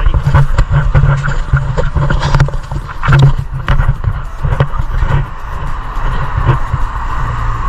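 Riding noise picked up by a bike-mounted action camera: a loud, unsteady low rumble with many short knocks and rattles throughout.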